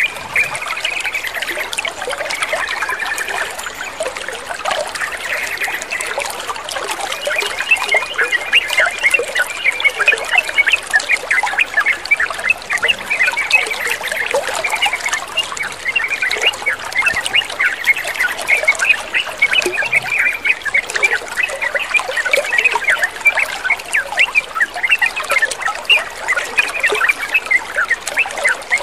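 Water trickling and splashing steadily, with a dense chatter of short bird calls over it that grows busier and more spattering about a quarter of the way in.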